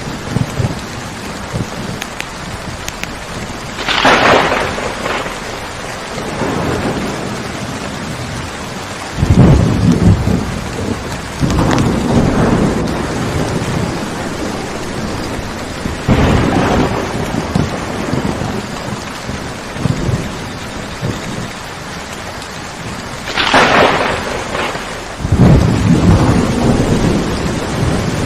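Steady rain with thunder. A sharp crack comes about four seconds in and another near the end, with several low rumbles of thunder in between.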